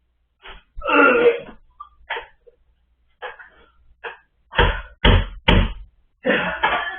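A teenage boy gagging and retching over spoiled leftovers, in a string of short dry heaves, with three strong heaves in quick succession a little past halfway.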